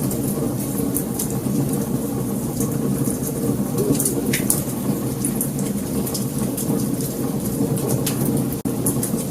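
Wood fire crackling: a steady low rumble of burning with frequent sharp pops and snaps. The sound drops out for an instant near the end.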